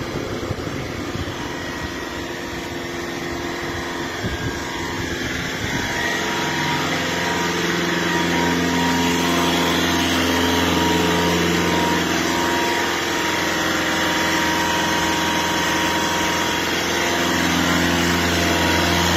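Skoda Fabia's diesel engine running, uneven at first. About six seconds in it settles into a steadier, louder hum at raised revs.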